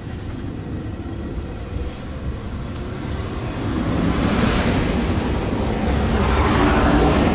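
JR Hokkaido 721 series electric train approaching, a rumble that grows steadily louder from about four seconds in.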